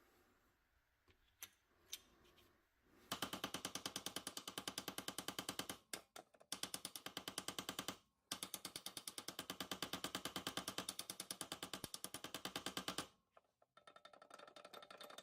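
Rapid, evenly spaced mechanical hammering or clattering, about eight strokes a second, in three runs with short breaks, from a small tool or mechanism.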